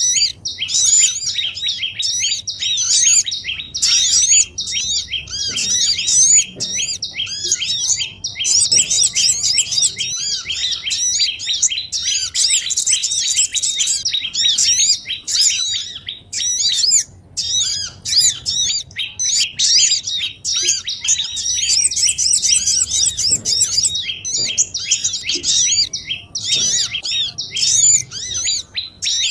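Bird-trapping lure recording of many small songbirds chirping at once: a dense, busy chorus of rapid, short, overlapping chirps with only brief gaps.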